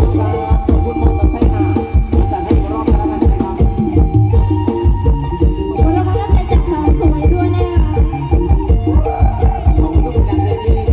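Live Thai rot hae procession band playing through a truck-mounted sound system: folk-style music with a heavy, steady drum beat under a melody line, heard through a phone's microphone.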